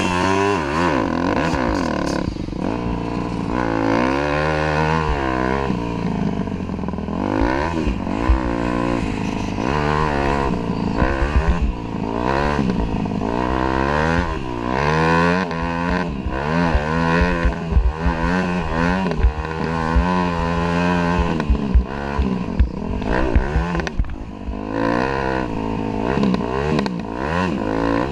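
Dirt bike engine being ridden hard, its pitch climbing and dropping again and again as the rider works the throttle and gears.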